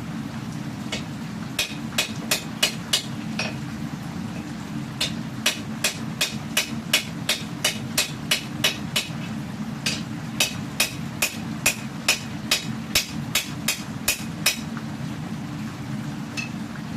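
Hammer striking hot steel on an anvil while a katana blade is forged, at about three blows a second: a short run, a pause of over a second, then a long steady run that stops a couple of seconds before the end. A steady low roar of the gas forge runs underneath.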